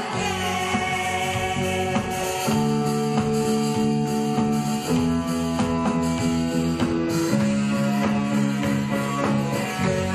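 Rock band playing an instrumental passage: guitars strumming held chords over bass and drums, the chord changing about every two and a half seconds.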